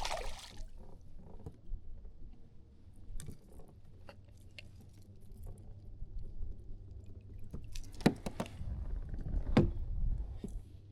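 Scattered clicks and knocks of fishing gear being handled aboard a kayak, most near the middle and near the end, over a steady low rumble.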